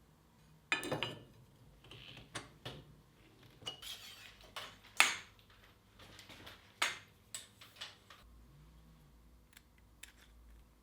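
Small steel tools and workpieces clinking and knocking irregularly, about a dozen sharp metallic strikes with the loudest about five seconds in.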